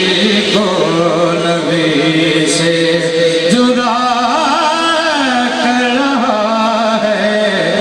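Male voice singing a manqabat, a devotional song, in long held notes with melodic turns; the pitch steps up about halfway through.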